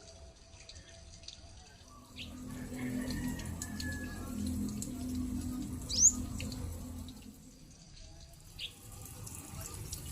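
Water running, as from a tap or hose, starting about two seconds in and easing off near the end, with a few short high chirps; the loudest is a quick rising chirp about six seconds in.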